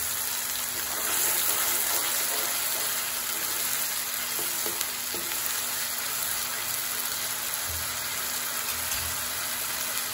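Ground onion, green chilli and ginger paste sizzling in hot mustard oil in a metal kadhai, a steady hiss, with a spoon stirring it and faintly knocking against the pan about halfway through.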